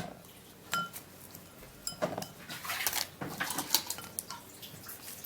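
Kitchen utensils and a bowl being handled: a sharp knock at the start, then irregular clinks and scrapes, a few of them ringing briefly.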